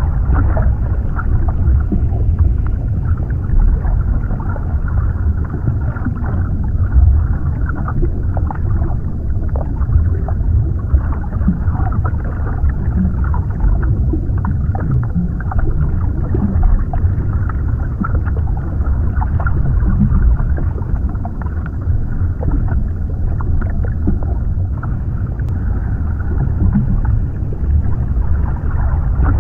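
Underwater ambience: a steady, deep, muffled rumble with faint scattered clicks and crackles over it.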